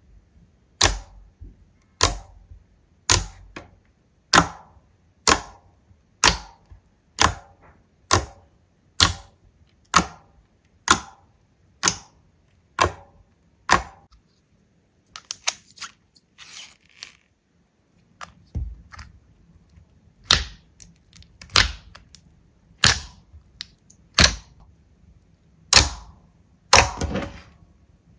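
Hands pressing and poking slime, making sharp popping clicks about once a second. There is a quieter spell of small crackles in the middle before the pops start again.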